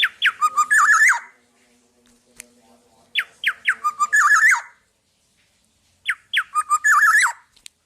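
Black-naped oriole (kepodang) singing the same phrase three times, about three seconds apart. Each phrase opens with a few quick downward-sweeping whistles and goes on into a rapid run of fluty notes.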